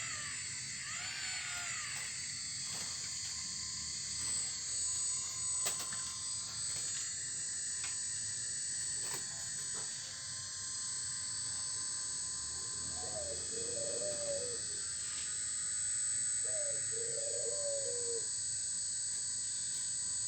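Bird calls: a few short chirps at the start, then two low, wavering calls in the second half, over a steady high-pitched hiss.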